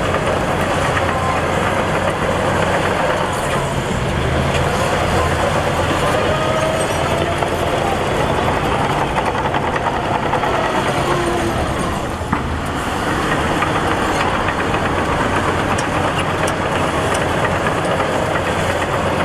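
Heavy diesel earthmoving machinery running steadily under load, with a short dip and a single sharp knock about twelve seconds in.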